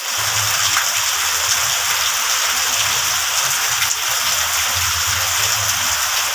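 Heavy rain falling steadily on foliage and wet ground, with a stream of runoff pouring from a bamboo gutter and splashing onto the ground.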